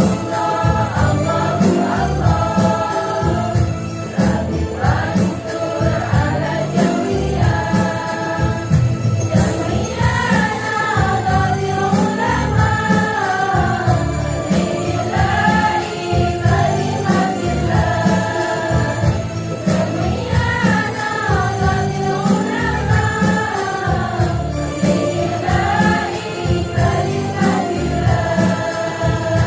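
Women's choir singing a devotional song together over rhythmic drum and jingling percussion.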